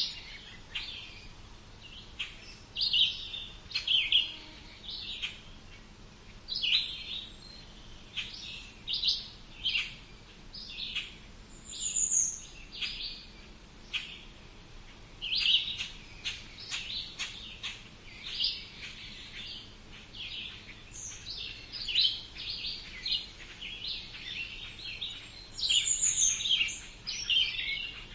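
Several songbirds chirping and singing in short, repeated phrases, high-pitched, with brief pauses between them.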